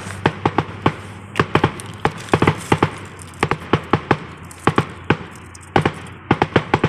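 Fireworks going off: an irregular run of sharp cracks and pops, several a second, with some louder bangs among them.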